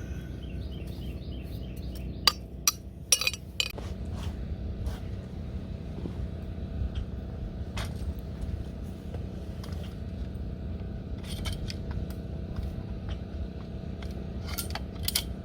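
Scattered clinks and clatter of camp dishes and utensils being handled and packed away, loudest a couple of seconds in and again near the end, over a steady low rumble. A few quick high chirps from a bird in the first second.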